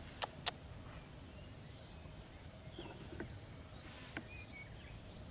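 Faint outdoor background hiss with a few sharp clicks, two close together near the start and single fainter ones about three and four seconds in, and some faint short chirps.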